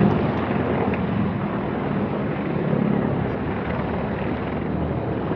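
Helicopter engine and rotor noise, a steady rush with wind blowing on the microphone.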